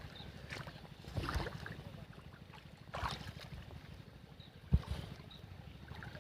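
Wind rumbling on the microphone over water sounds by a river bank, with a few short knocks and splashes; the sharpest knock comes just under five seconds in.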